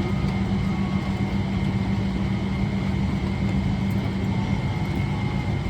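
Steady drone inside the cabin of a Boeing 777-300ER airliner with its engines running, with a thin high whine held over it.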